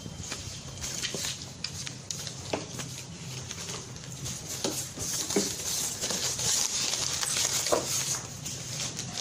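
Rustling of packaging being handled, with scattered clicks and light knocks of items being moved about. The rustling grows busier in the second half.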